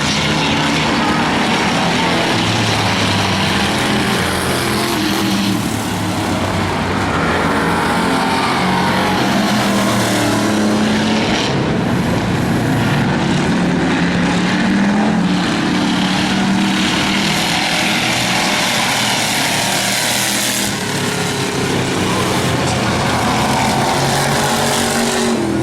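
Engines of several demo race cars and trucks running together around a short oval track, their pitch rising and falling as they speed up and slow down.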